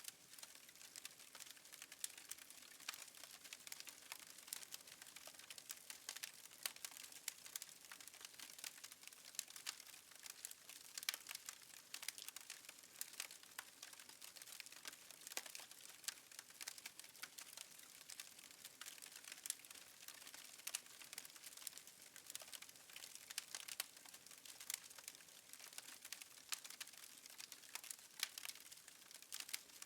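Wood fire crackling faintly: a continuous run of small, irregular pops and snaps over a soft hiss.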